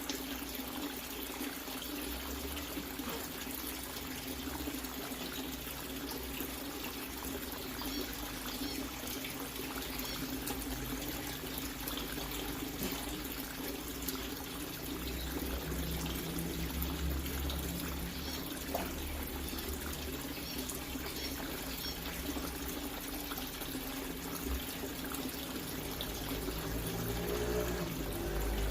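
Water running steadily into a refrigerator shell used as a fish tank as it is filled to the top.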